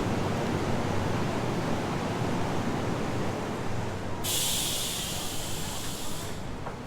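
Steady hum and rumble of a train standing at the platform, with a sharp hiss of released air about four seconds in that lasts about two seconds and cuts off.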